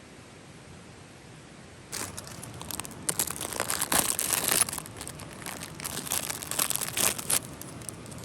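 Crinkly rustling and crackling of crumpling material being handled. It starts about two seconds in and is loudest in a few spells before it stops near the end.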